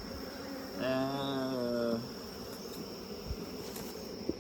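Honeybees buzzing in a steady hum around an open hive. The colony is stirred up by the smoker. About a second in, a louder steady tone lasts about a second.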